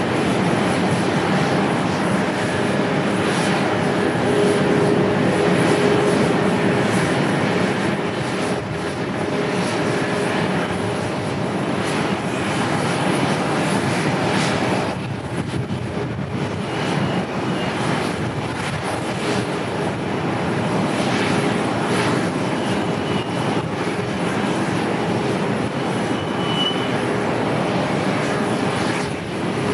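Jet airliner engines on a landing approach: a steady rushing roar with a faint hum, easing slightly about halfway through.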